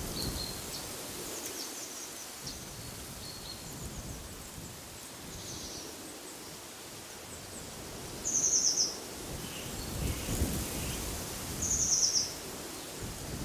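Songbirds calling over a steady hiss of wind: scattered faint high chirps throughout, and two loud, short rapid trills about eight and twelve seconds in. Low rumbles of wind on the microphone at the very start and about ten seconds in.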